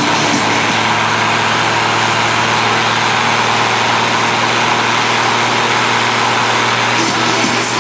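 Pulling tractor's engine running loudly and steadily.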